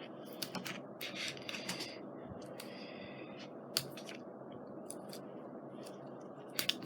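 Scrapbooking mounting tabs being pulled from their dispenser box: scattered light clicks and short scratchy rustles of paper and plastic, a cluster in the first two seconds and a few single ones later, over a steady low hum.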